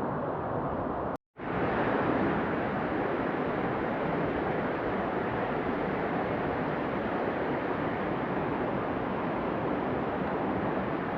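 Steady rushing of a mountain stream's flowing water, broken by a split-second dropout to silence about a second in.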